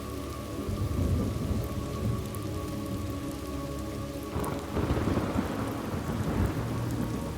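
Steady rain falling, with thunder rumbling; the thunder swells sharply about four seconds in and rolls on for a couple of seconds.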